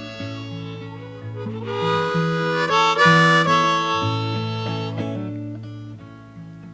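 Harmonica playing an instrumental break between verses over acoustic guitar, swelling loudest about three seconds in.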